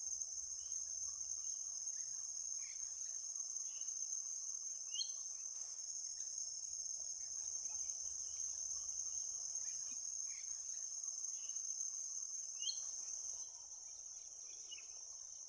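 Steady high-pitched chorus of insects, with a few short faint chirps over it that rise in pitch twice.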